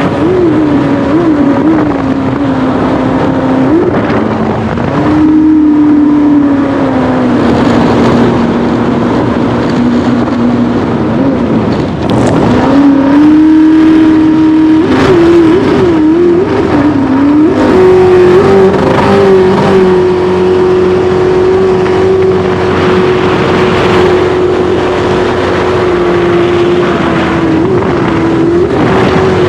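Racing jet boat engine running loud at high revs, its pitch wavering up and down as the throttle changes. It drops briefly about twelve seconds in, then climbs and holds steady and high.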